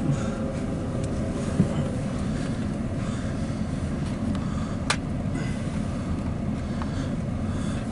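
Steady low vehicle rumble, with a single sharp click about five seconds in.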